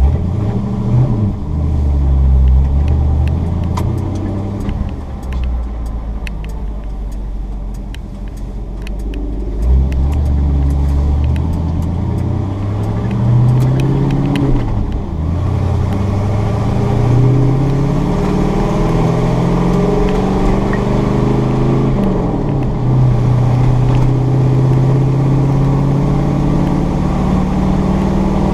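Chevy 454 big-block V8 in a 1986 Chevy short-bed pickup, driving through the gears of its five-speed manual. The engine note climbs, drops at a gear change about halfway through and again about three-quarters through, then holds steady at cruise.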